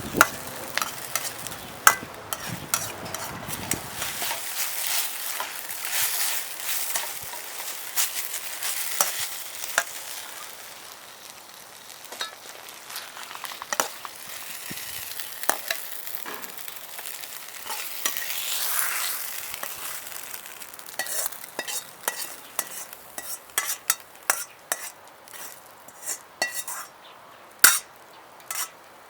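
Food sizzling and being stir-fried in a Chinese wok over a wood fire, with many sharp clicks and taps throughout. The sizzle thins toward the end, leaving scattered sharp clicks.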